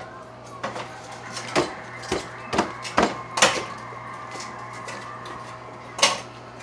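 Close-miked eating: bites into a corn dog and crunchy chewing, a series of short, sharp crackly crunches, most of them in the first half and one more about six seconds in, over a faint steady hum.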